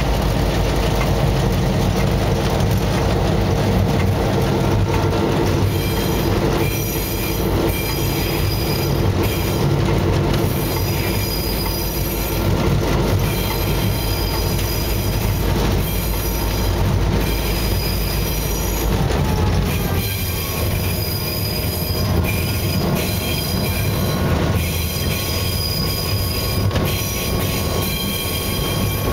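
Diesel locomotive running under way, heard from inside the cab, with a steady deep engine rumble and shrill wheel squeal that comes and goes from about six seconds in. About twenty seconds in the deepest part of the rumble eases off.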